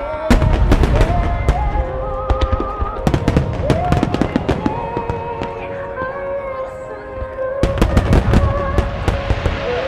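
Aerial fireworks shells bursting in rapid volleys of cracks and booms, thickest about a second in, again around four seconds in and near the end, with music, including a held sung line, playing underneath.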